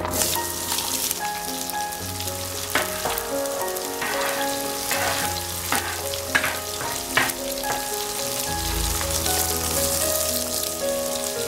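Diced onion sizzling steadily as it fries in hot oil in a stainless steel frying pan, with a few short sharp crackles, over background music.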